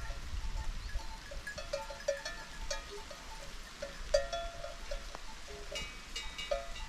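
Bells on grazing livestock clanking irregularly: many short metallic clinks at several different pitches, with one louder clank a little past the middle.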